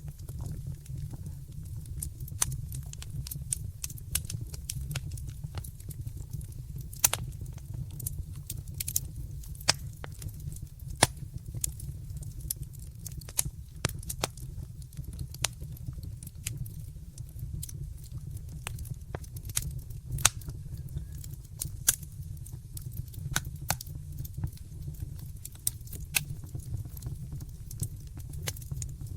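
Wood fire in a fireplace crackling: irregular sharp pops and snaps over a steady low rumble of the flames, with a few louder pops scattered through.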